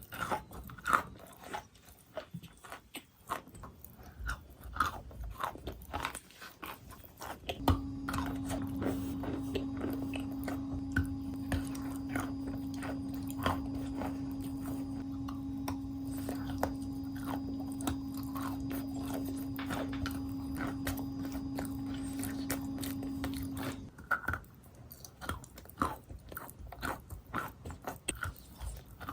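Close-up biting and crunching of chalk, including wet chalk and chalk mixed with clay paste, in many sharp crunches. From about eight seconds in to about twenty-four seconds in, a steady hum runs under the crunching, then stops.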